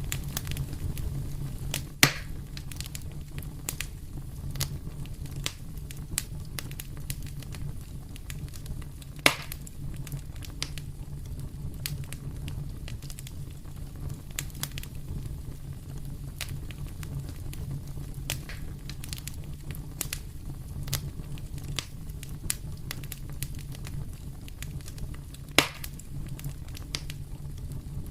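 Fire in a fireplace crackling steadily with many small ticks and three louder pops, over a steady low rumble.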